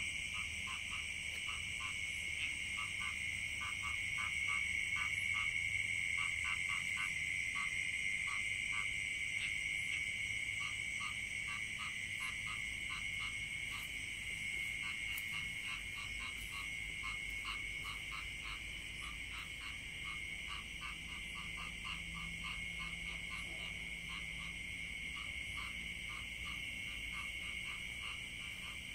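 Night chorus in a rice field: many frogs calling in short, rapidly repeated notes over a steady, high-pitched buzzing of insects.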